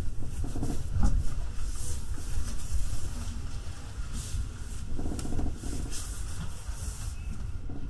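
Electric commuter train running, heard from inside the leading car: a steady low rumble with several passing hissy surges.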